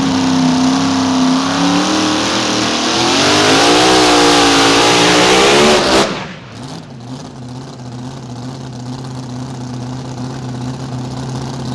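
Mini Rod pulling tractor's engine running flat out under load down the track, its pitch wavering and climbing, then cut off suddenly about six seconds in. A lower, quieter steady engine note carries on after the cut.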